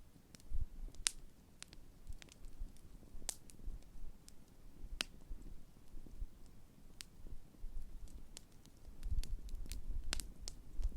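Large wood campfire burning, with irregular sharp pops and crackles of the burning wood, a few louder than the rest, over a low rumble.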